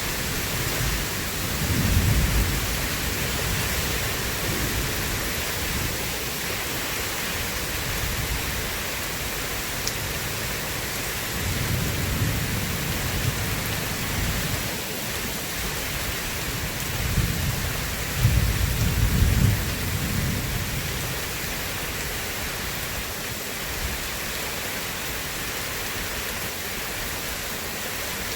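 Steady rain hissing, with low thunder rumbling about two seconds in, again near the middle, and loudest in a long roll about two-thirds of the way through.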